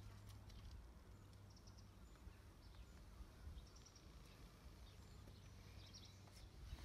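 Near silence: a few faint, short, high bird chirps now and then over a low steady hum.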